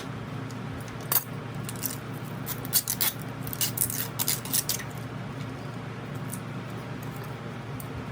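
A scatter of light clinks and taps of small hard objects, bunched between about one and five seconds in, over a steady low hum.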